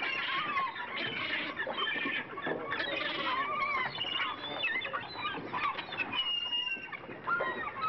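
A flock of birds calling over one another: many overlapping squawking calls that rise and fall in pitch, with no pause.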